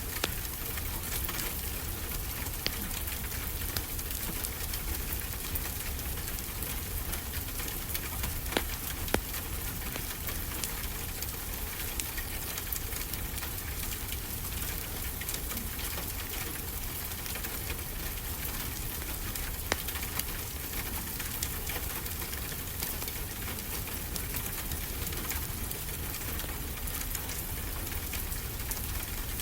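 Wood fire crackling in a fireplace: a steady hiss with a few scattered sharp pops, over a constant wash of ocean surf.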